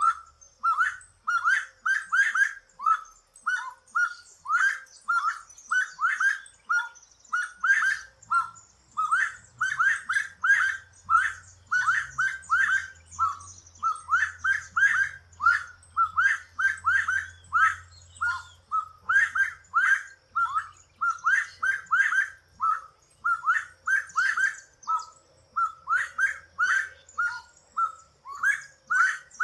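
Saffron finch (canário-da-terra) singing: a long run of short, sharp chirped notes, several a second, with only brief pauses.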